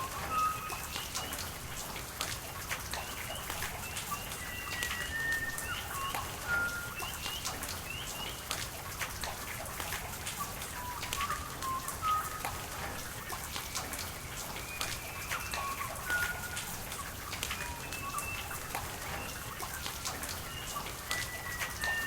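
Steady rain with sharp drop ticks over a background of running water, with many short bird chirps scattered throughout.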